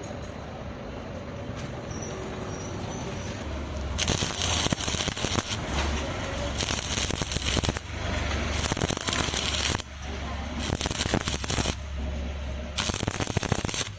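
Stick (arc) welding on steel square tube: after a few seconds of low steady hum, the arc crackles and spits loudly in several runs, with short breaks between beads.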